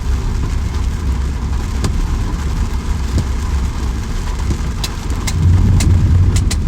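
Rain falling steadily over a loud low rumble that swells near the end, with a few sharp ticks of drops striking something close by.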